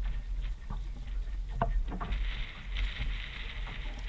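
Water slapping and knocking against the plastic hull of an Ocean Kayak Trident 4.3 sit-on-top kayak, with a sharp knock about one and a half seconds in, over a steady low rumble and a hiss that swells near the middle.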